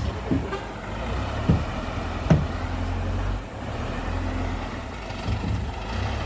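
Heavy truck's diesel engine running steadily with a low hum, with two short knocks about one and a half and two and a half seconds in.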